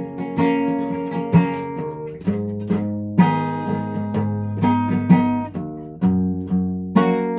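Guitar being played: chords strummed or picked one after another, a new one struck every half second to second and left to ring.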